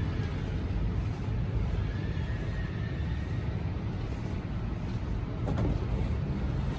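Steady low rumble of Shinkansen station platform ambience, with a faint thin tone about two seconds in.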